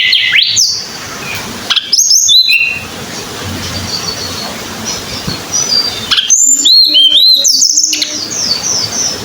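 Tledekan gunung songbird singing in three loud bursts of quick, high, sliding whistled notes: at the start, about two seconds in, and again from about six to eight seconds in. Fainter high chirps come in between.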